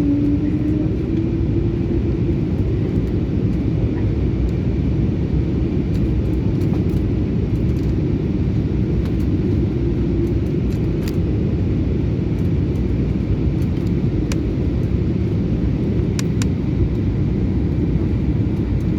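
Steady low rumble of a passenger jet, with a faint tone that drifts slightly upward and fades out about ten seconds in.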